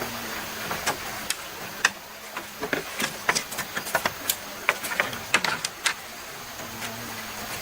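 A stream running steadily under a string of sharp, irregular clicks and knocks, thickest in the middle few seconds, typical of hand work on bamboo.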